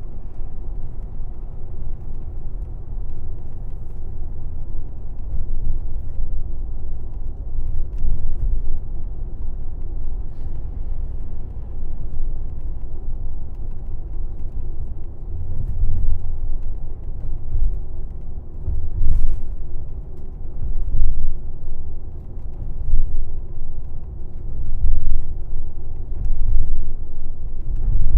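Low engine and road rumble inside a moving airport limousine coach, wavering in level with several louder surges in the second half.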